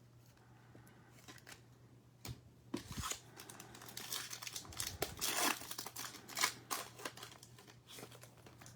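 Foil trading-card pack being torn open and its wrapper crinkled, in crackly bursts starting about two seconds in and dying away near the end.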